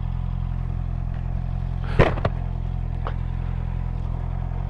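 Honda CB650R's inline-four engine idling steadily, with a sharp clack about two seconds in and a lighter click about a second later.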